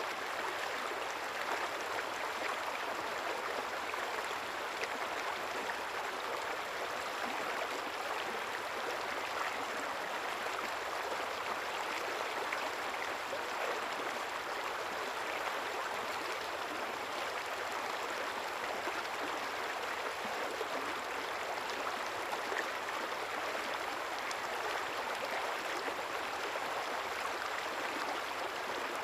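A small river or stream flowing, with a steady, even rush of water that does not change.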